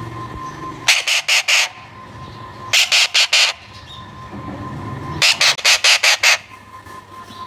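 Alexandrine parakeet screeching in three quick bursts of harsh calls, four to six calls in each burst, over a faint steady hum.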